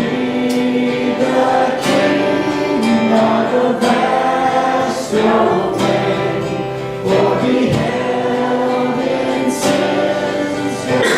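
Congregational gospel worship song: a choir singing with guitar accompaniment.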